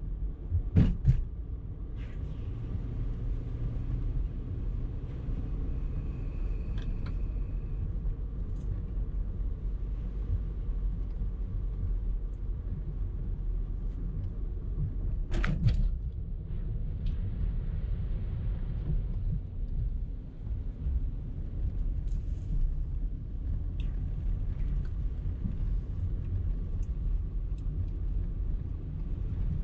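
Car driving in traffic: a steady low road and engine rumble, with two sharp knocks, one about a second in and another about halfway through.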